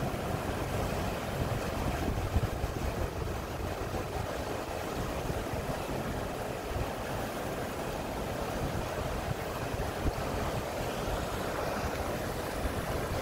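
Steady rush of water churning into a filling canal lock chamber, with a low rumble underneath.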